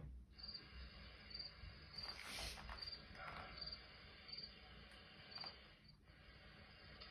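Faint insect chirping: a short, high chirp that repeats evenly a little under once a second. A brief rustle comes about two seconds in.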